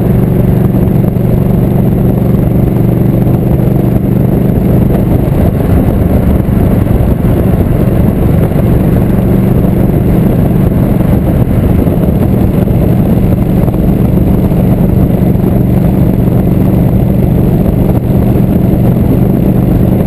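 Motorcycle engine running at a steady cruising speed, with road and wind noise rushing over the microphone.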